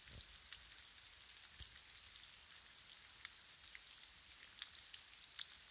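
Faint water drops pattering: scattered irregular ticks over a steady high hiss.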